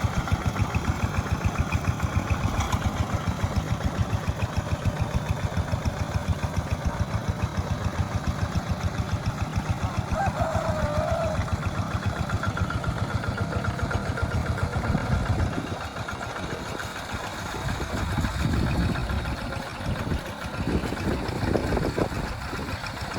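Tractor engine running with an even chugging beat, about four or five a second. About fifteen seconds in the beat gives way to a quieter, uneven rumble.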